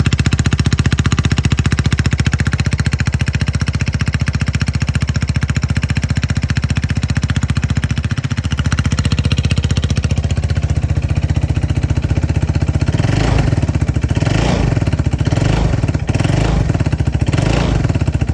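Royal Alloy scooter's single-cylinder four-stroke engine idling through an aftermarket sports exhaust with a steady, even beat. In the last third it is blipped four times: quick revs that rise and fall back to idle.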